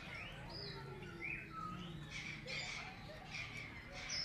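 Small birds chirping, many short rising and falling calls overlapping one another.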